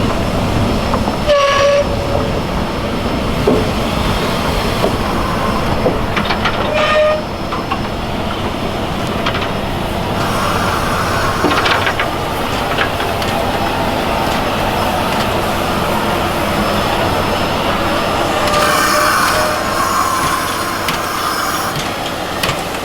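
Steam train running along the track, a continuous rumble and clatter, with a few brief pitched tones: one about a second and a half in, one near seven seconds and one around nineteen seconds.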